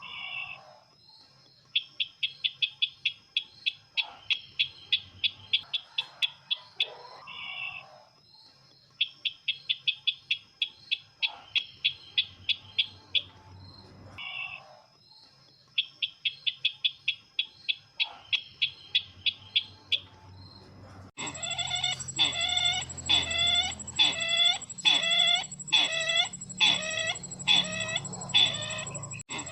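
A sisintar ladang bird call played as a lure: bursts of rapid high chattering notes, each about two seconds long, repeated every few seconds. About 21 seconds in it switches abruptly to a louder, lower call repeated about twice a second.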